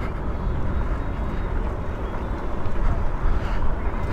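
Wind rumbling on the camera microphone while riding an e-bike, a steady low rush that rises and falls.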